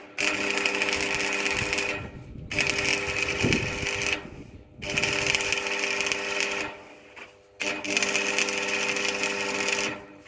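An electric power tool's motor running in four short bursts of about two seconds each, with a steady hum and a high hiss, starting and stopping between bursts.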